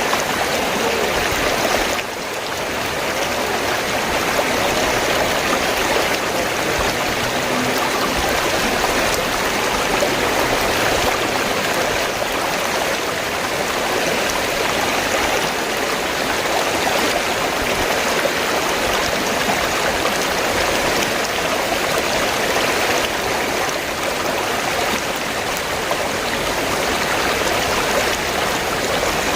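River water flowing steadily, an even rushing splash with no breaks.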